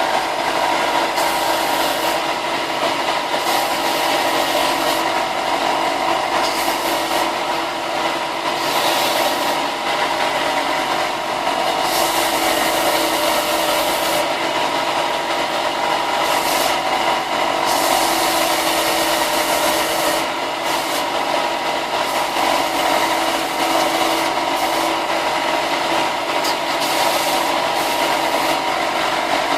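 Electric sander running steadily against the edges of plastic stormtrooper armor parts, a grinding rasp over the motor's steady hum. The rasp swells and fades every second or two as a piece is pressed to the sanding surface and eased off.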